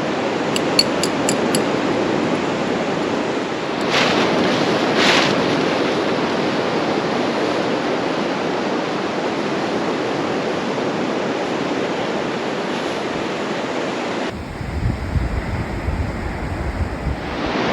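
Ocean surf washing steadily on an open beach, with two waves swelling louder about four and five seconds in and a short run of quick high ticks near the start. Near the end the sound turns duller, with a low rumble of wind on the microphone.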